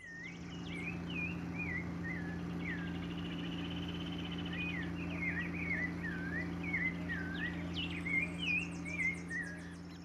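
Birds chirping: many short, swooping whistled notes one after another, over a steady low hum. A quick high ticking joins near the end.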